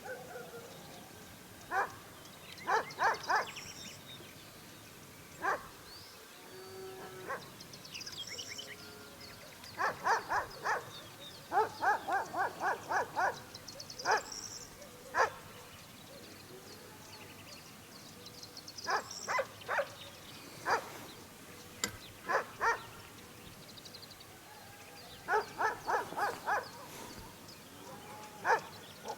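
A dog barking in quick runs of several barks, with pauses of a few seconds between runs, and small birds chirping over it.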